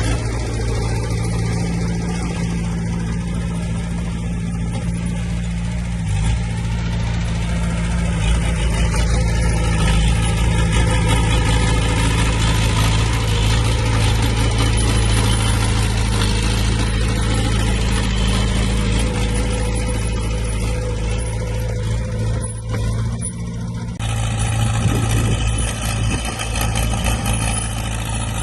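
Heavy diesel earthmoving machinery (bulldozer and dump trucks) running steadily, a low engine drone. Near the end the sound changes abruptly.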